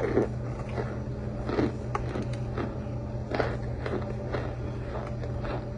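Chunks of compressed cornstarch crunching and squeaking as they are bitten and chewed close to the microphone, in short crisp bursts about two a second.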